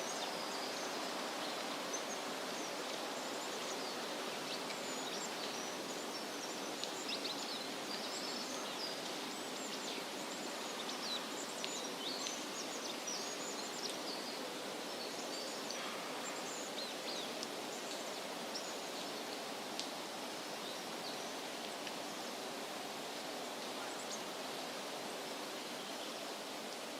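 Wind rustling through leafy trees as a steady hiss, with many small birds chirping and twittering high above it, busiest in the first half.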